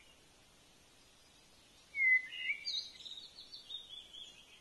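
Near silence for about two seconds, then a bird calls, followed by a quick run of short, high, falling chirps.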